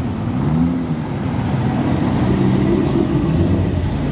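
Car engine revving, its pitch rising and falling several times over a low rumble.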